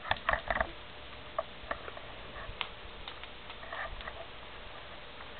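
Light clicks and taps from a dog pawing and pouncing at a grasshopper: a quick run of four or five clicks at the start, then scattered single ticks.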